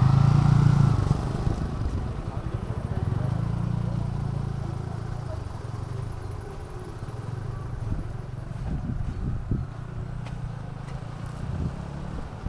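Motorcycle engine running with a steady low hum, loudest at the start and growing quieter over the following seconds.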